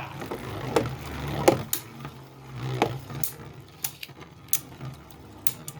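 Two spinning Beyblade tops whirring with a low hum and clashing, with sharp clacks about every half second to second. The hum fades after about three seconds while the clacks go on.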